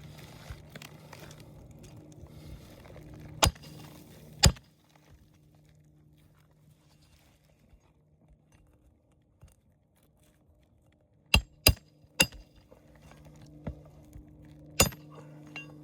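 Sharp metallic strikes of a roof snake driving roofing nails under shingles: two hits about a second apart, then three quick hits together, then one more near the end.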